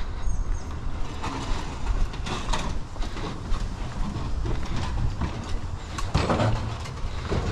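Heavy cast iron pots being handled, with irregular knocks and scraping clatter over a steady low rumble.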